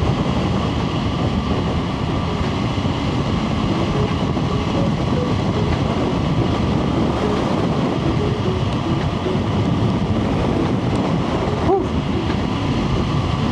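Motorcycle riding at steady speed: the MV Agusta Brutale 675's three-cylinder engine through a Termignoni slip-on exhaust, running under heavy wind rush on the microphone.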